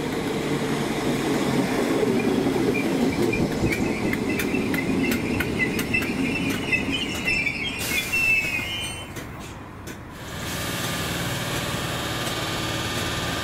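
Merseyrail electric multiple unit running along the platform, wheels squealing on the rails with a quick run of rail-joint clicks, the sound dropping away about ten seconds in. A steadier hum follows.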